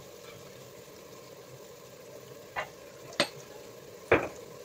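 Chicken and tomatoes sizzling gently in an open pressure cooker on the stove. Three sharp clicks in the second half as salt is spooned in from a ceramic jar.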